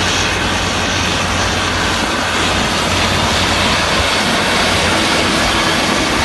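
Heavy construction machine's diesel engine running steadily, with a broad rushing noise over a low hum.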